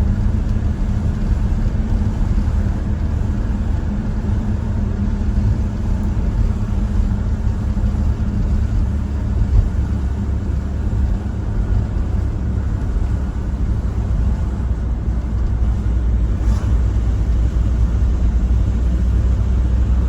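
Steady low rumble of a motor vehicle on the move, road and engine noise without a break.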